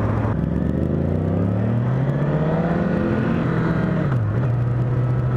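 Honda CBR1000RR's inline-four engine pulling under acceleration, its note rising steadily for about three and a half seconds, then dropping sharply about four seconds in and settling to a steady drone. Wind rushes over the helmet microphone throughout.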